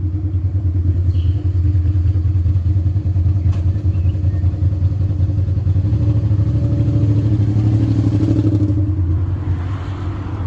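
Suzuki SV650 V-twin engine running loud through a straight pipe with the muffler removed, revs rising slightly a little past halfway and falling back near the end.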